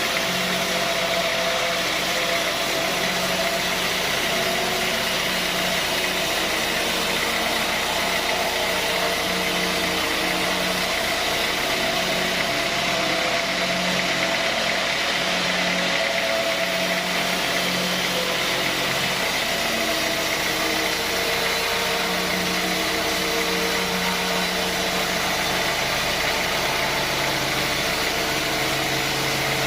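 Sawmill machinery running steadily, a continuous mechanical hum and rush that holds the same level throughout.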